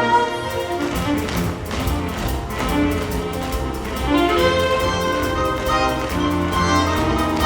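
Theatre pit orchestra playing, strings prominent, with many quick tap-shoe clicks running through the music.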